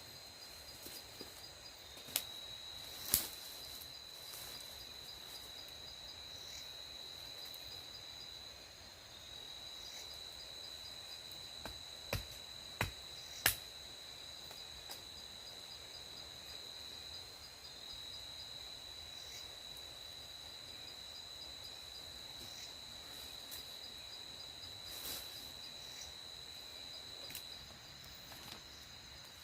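Crickets trilling steadily at night, a continuous high chirring with a faster pulsing chirp just above it. A few sharp snaps cut through: two early on, then three in quick succession about twelve to fourteen seconds in.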